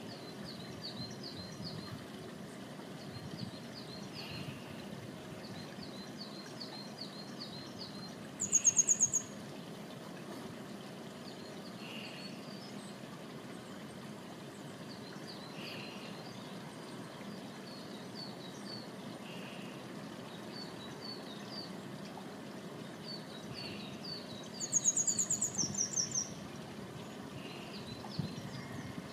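Small birds singing and calling over a steady low hiss: faint, high chirping phrases repeat throughout, with a soft lower note every few seconds. Twice, about nine seconds in and again near the end for about two seconds, a loud, fast, very high trill rings out close by.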